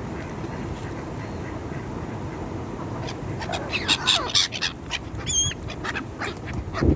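A flock of birds calling excitedly around food: a rapid jumble of short, sharp calls starts about three seconds in, with one brief wavering whistle-like call in the middle of it, over a steady low rumble.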